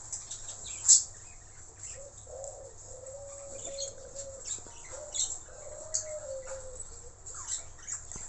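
Blue-rumped parrot (nuri tanau) giving short, shrill, high-pitched calls, the loudest about a second in and a few more in the second half, over a lower wavering cooing note that runs through the middle.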